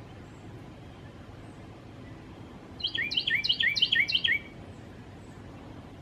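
A songbird singing one short song of five or six quickly repeated chirping phrases, starting about three seconds in and lasting about a second and a half.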